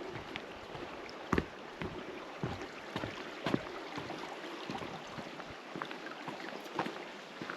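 Footsteps on a forest trail: irregular soft steps about half a second to a second apart, over a steady outdoor hiss.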